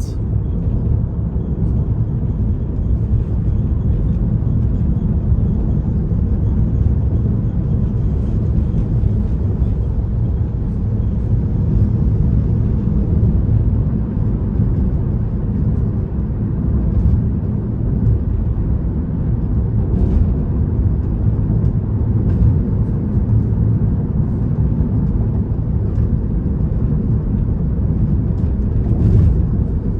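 Steady low road and tyre rumble inside a Tesla's cabin at freeway speed, with no engine note, as the car is electric. A few faint ticks are heard now and then.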